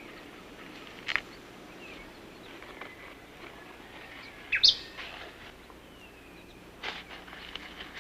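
Rainforest ambience: birds giving short, sharp calls over a steady background hiss, the loudest a quick swooping call about halfway through, with fainter whistles in between.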